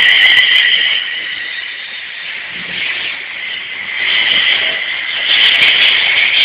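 Electric passenger train passing close by at speed: a loud, steady rush that eases slightly and then swells again in the second half.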